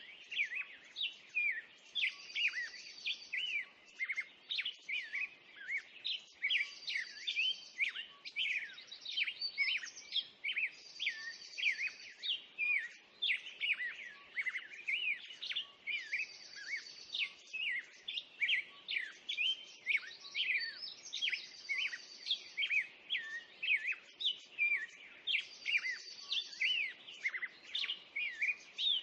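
Several songbirds chirping and singing, with a high trill coming back about every four and a half seconds.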